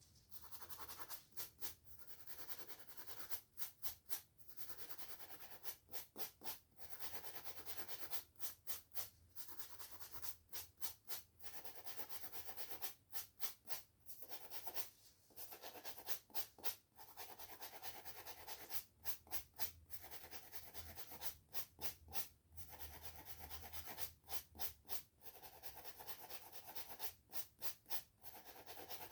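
Hair being brushed and a scalp scratched, a dry scratchy rubbing that alternates longer continuous strokes with runs of quick short strokes.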